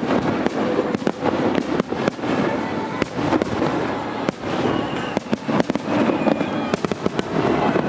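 Aerial firework shells bursting in quick succession, a dense run of bangs from a multi-shell barrage.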